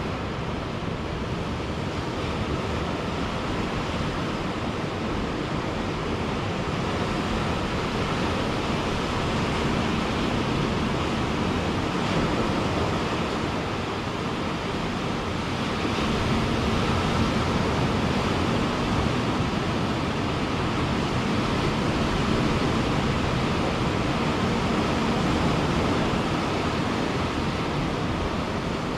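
Ocean surf breaking and washing on a beach: a steady wash of noise that swells a little now and then.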